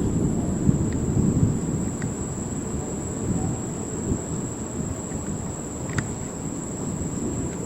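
The rumble of thunder dying away after a clap, while crickets keep up a steady high trill.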